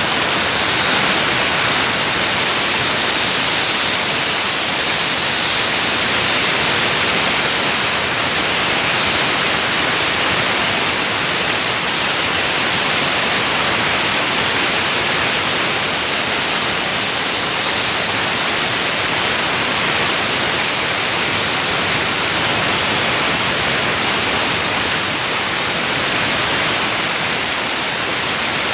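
Spray gun hissing steadily as it sprays diesel under a car's underbody, an unbroken rush of air and mist.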